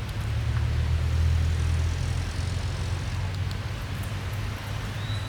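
Low, steady engine-like drone that swells about half a second in and eases after about two seconds.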